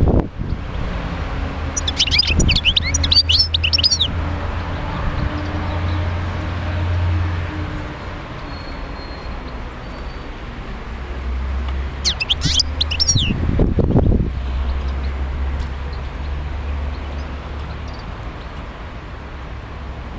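European goldfinch singing in two short bursts of rapid, twittering chirps about ten seconds apart, each about two seconds long, over a steady low rumble.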